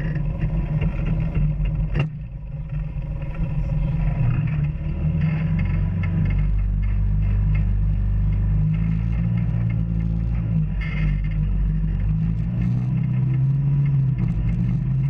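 Off-road vehicle engine running under load on a trail, its pitch rising and falling as the throttle changes, with a sharp knock about two seconds in.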